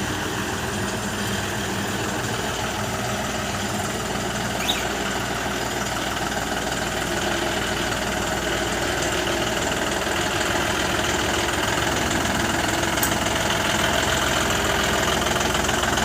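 John Deere 5210 tractor's diesel engine idling steadily.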